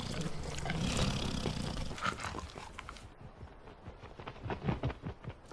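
Rough, low animal growling without a clear pitch, fading about three seconds in.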